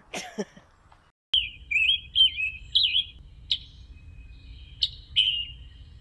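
A songbird singing a string of short warbled phrases with brief pauses between them, starting about a second in, over a low steady rumble.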